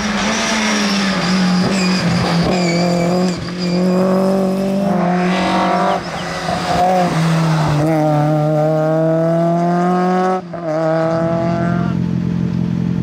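Rally car engine accelerating hard through the gears, its pitch climbing in each gear and dropping briefly at three gear changes.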